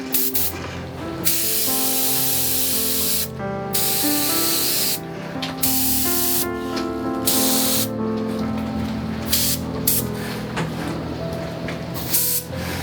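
Aerosol spray paint cans hissing in repeated bursts of a second or more, with short breaks between them, over background music.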